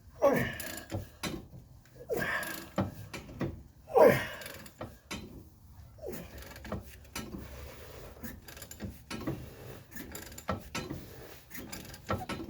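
Ratchet wrench turning the forcing bolt of a makeshift press under heavy load, clicking as it is worked, to push a seized shaft out of a suspension bushing. Three loud falling groans come in the first four seconds, about two seconds apart.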